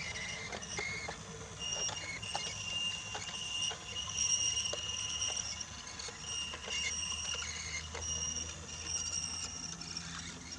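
Brio toy train running along wooden track: a high whine that comes and goes, with short clicks as the wheels pass over the track joints.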